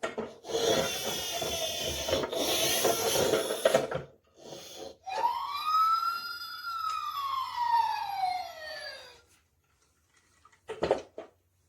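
A siren wail: one tone sweeping up and then slowly falling over about four seconds. It comes after a few seconds of noisy, rough rubbing sound, and a couple of short clicks follow near the end.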